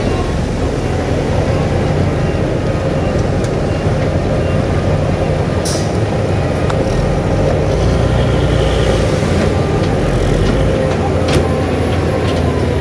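Heavy diesel engine of a bulldozer running steadily, with a couple of brief sharp clicks or knocks.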